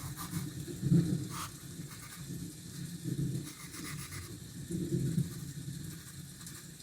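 Pencil strokes scratching on sketchbook paper, a few short strokes in the first second and a half, over a low rumbling background that swells and fades several times.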